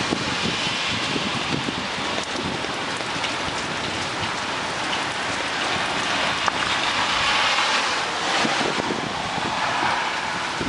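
Heavy thunderstorm rain pouring steadily, a dense even hiss that swells a little past the middle.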